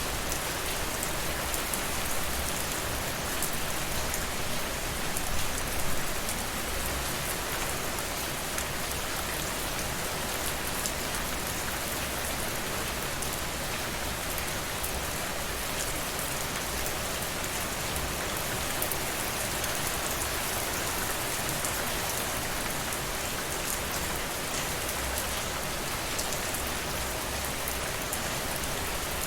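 Steady rainfall: an even hiss of rain with the fine patter of individual drops, swelling slightly for a few seconds near the start.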